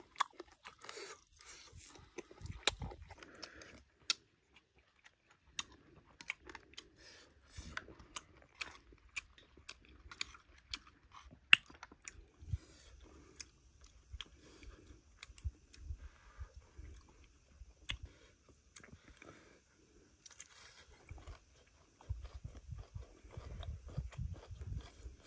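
Close-up chewing of soup of snake meat and young bamboo shoot: wet mouth sounds broken by irregular sharp, crisp crunches.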